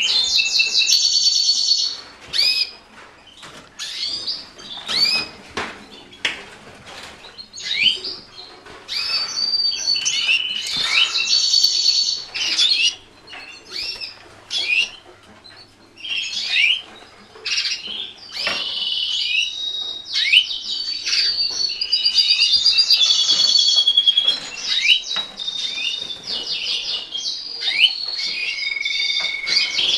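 Red factor canaries singing: fast rolling trills and quick repeated notes, broken by sharp single chirps. There are quieter spells of scattered chirps before the full song picks up again.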